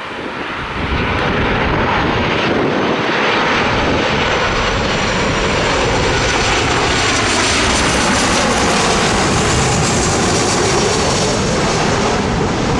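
Airliner's engines passing low overhead: a loud, steady rush that builds within the first second, with a high whine that falls in pitch near the end.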